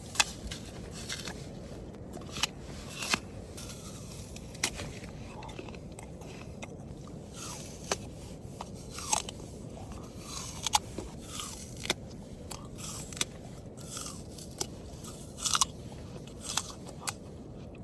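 Close-up crunching and chewing of a raw apple: irregular crisp bites and chews, several a second at times, with gaps between.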